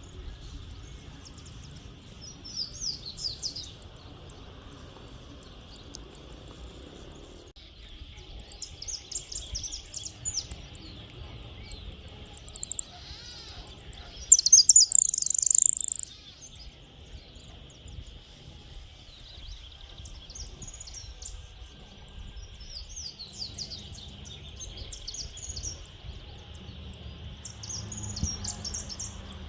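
A small yellow songbird singing in repeated phrases of sharp high chips and quick falling notes, with a louder, fuller phrase about halfway through. A steady high drone runs underneath.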